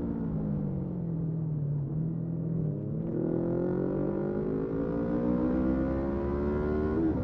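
Motorcycle engine running under way: its pitch falls as it slows for about three seconds, then rises steadily as it accelerates. Near the end there is a quick dip and recovery, as at an upshift.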